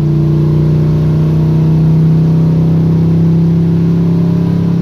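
Squarebody Chevy drag truck's engine pulling under load at a steady, nearly unchanging pitch, heard from inside the cab. The driver calls it not happy.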